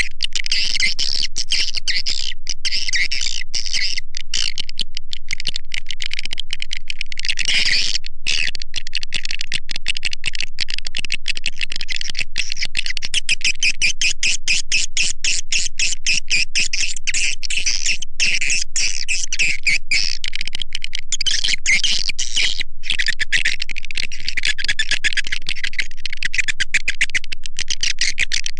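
Edible-nest swiftlet call recording used to lure swiftlets into a bird house: a dense, steady stream of rapid high chirps and twitters from many birds together.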